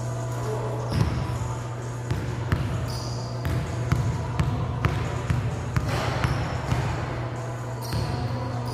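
Basketball bouncing on a hard court, irregularly spaced thuds, over a steady low hum.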